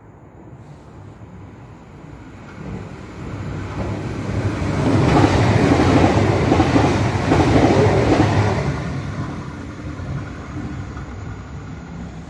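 Irish Rail 22000 Class InterCity diesel railcar passing through the station at speed. It swells from about two seconds in, is loudest in the middle as it runs past, and fades away near the end.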